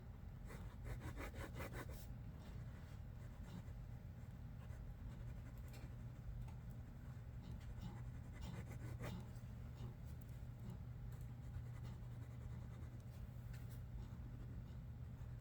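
Pencil sketching on paper: faint bursts of quick scratchy strokes, one cluster about half a second in and another around eight seconds in, with scattered single ticks between, over a steady low hum.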